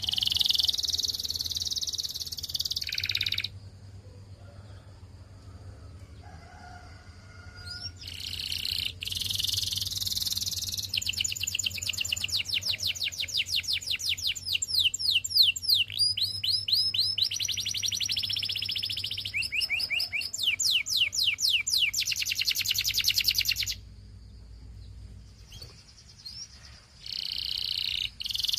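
Canary singing in long phrases of rapid repeated notes and trills, each run of notes changing to a new one, broken by two pauses of a few seconds. A faint low hum sits underneath.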